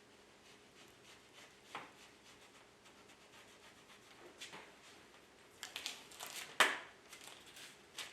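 Scattered light clicks and knocks of hands handling objects, with a quick cluster of them late on and the loudest knock about six and a half seconds in, over a faint steady hum.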